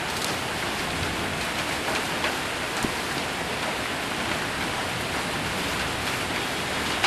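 Heavy rain mixed with hail falling steadily on a metal roof: a dense, even hiss with a few sharper single hits.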